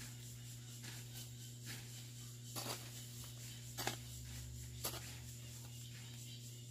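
A hoe chopping into the ground while weeding: three sharp strikes about a second apart in the middle, over a steady low hum.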